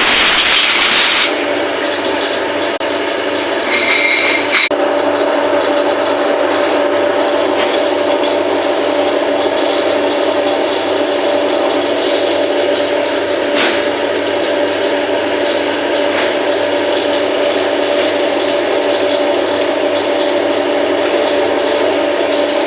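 CNC machine running steadily while machining a 316 stainless steel camlock fitting. A brief loud hiss comes in the first second, and a short high-pitched ringing tone about four seconds in.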